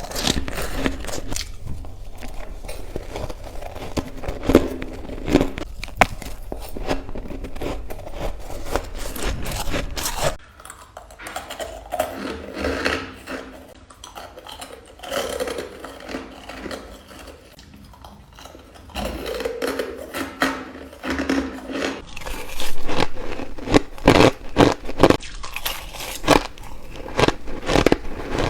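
A person biting and crunching ice, a fast run of crisp cracking crunches. It goes quieter through the middle, then returns with a cluster of loud, sharp bites in the last few seconds.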